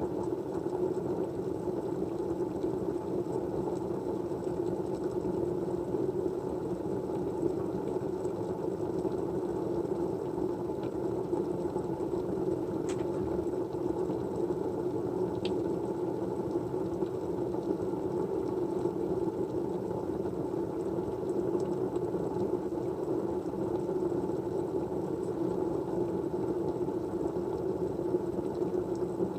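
Steady low, even white-noise background with no rhythm or change, its weight in the low-middle range. Two faint short clicks about halfway through.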